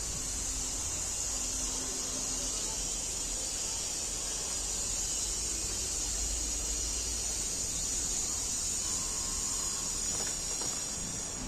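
Steady high-pitched chorus of insects chirring without a break, over a low rumble.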